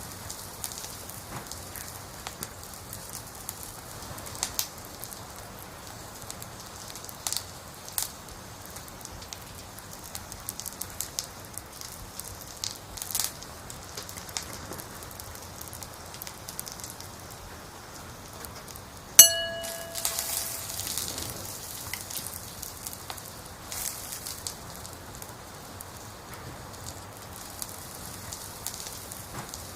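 Wood fire crackling steadily, with scattered sharp pops of burning logs. About two-thirds of the way through, a single bell-like chime rings out and fades over a second or so, the timer alert that marks a ten-minute study block.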